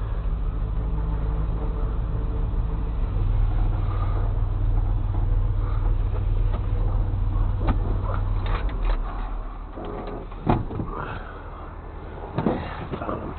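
A truck engine runs steadily, then its hum drops away about eight and a half seconds in. Sharp clanks and knocks follow, the loudest about ten and a half seconds in and another burst near the end.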